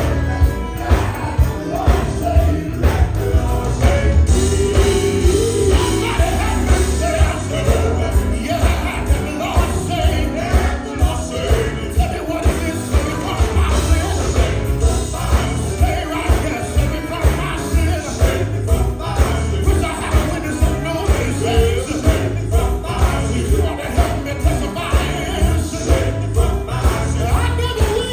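Live gospel band music with a steady beat of about two strokes a second and a bright jingling on top.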